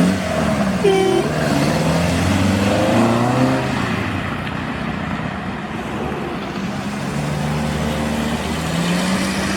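Classic car engines accelerating as cars drive past, with the engine note rising a couple of times over steady road noise.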